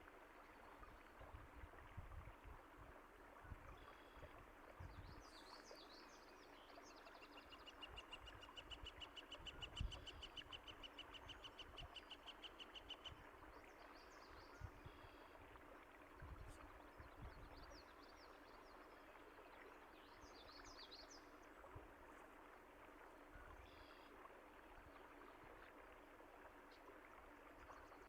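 Faint, steady rush of running water with songbirds chirping now and then. A bird gives a long rapid trill from about eight to thirteen seconds in. A few soft low thumps come through, the strongest about ten seconds in.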